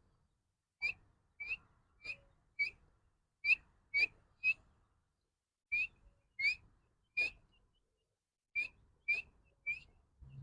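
Teetar (francolin) chick peeping: short, high, slightly rising whistled peeps, about one every half second in loose runs of three or four.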